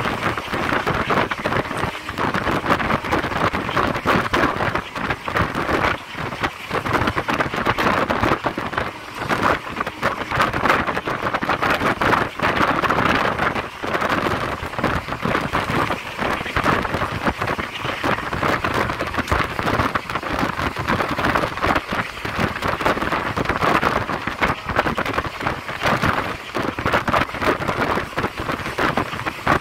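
Train running, heard from on board: a steady, dense rushing noise full of uneven rattling and crackling.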